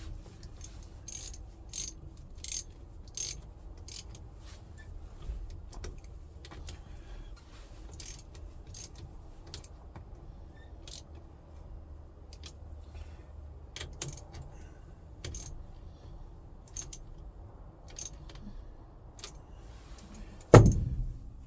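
Sharp metallic clicks and clinks of a hand tool on half-inch nuts as they are fitted, coming about once every 0.7 s at first and then at irregular intervals. A single heavy thump near the end.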